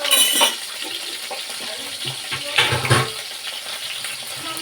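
Kitchen noise: a steady hiss, with two short, louder bursts of clatter or noise about half a second long, one at the start and one about two and a half seconds in.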